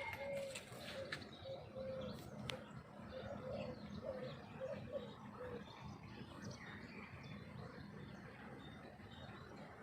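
A dove cooing: a run of short, low notes over the first five or six seconds, with fainter small-bird chirps higher up.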